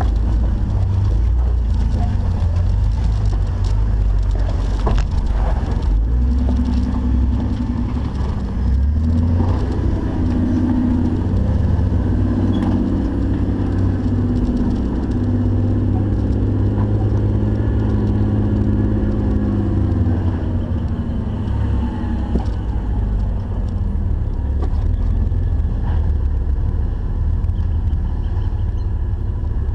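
Jeep engine running at low speed off-road, with a heavy low rumble throughout. A clearer engine tone comes in about six seconds in and fades around twenty-two seconds, with occasional knocks.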